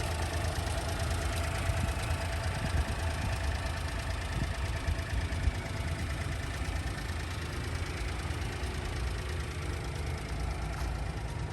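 A vehicle engine idling steadily, with a continuous low rumble.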